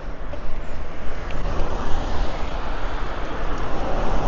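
Steady motorway traffic noise with wind rush, heard from a moving bicycle, swelling slightly about three seconds in as a vehicle goes by.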